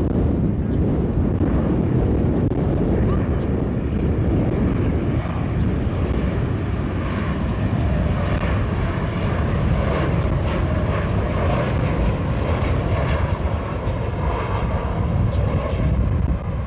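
Jet airliner's engines, a steady deep rumble with a buzzing engine tone that builds about halfway through.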